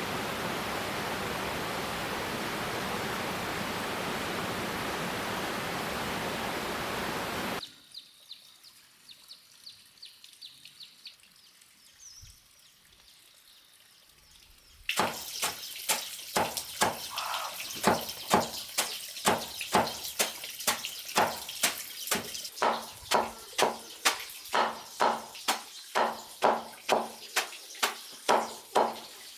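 Steady rushing water that cuts off suddenly after about seven seconds. Then a quiet stretch with faint ticks, and from about halfway on a steady run of sharp knocking strikes, a little under two a second.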